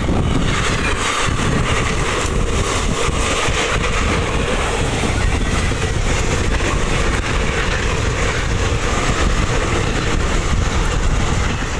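Steady, loud rumble and clatter of moving train wheels on rails, heard from the open door of a running ICF coach while another train of ICF passenger coaches passes close alongside on the next track.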